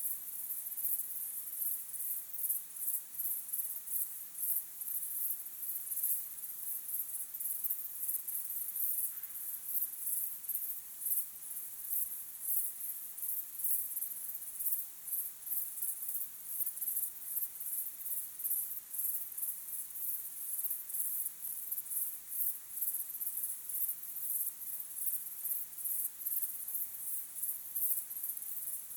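Crickets chirping in a dense, continuous high-pitched chorus, pulsing many times a second.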